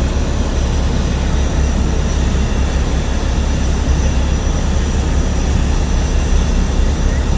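Airplane engines running steadily: a loud, even noise with a heavy low rumble that neither rises nor falls.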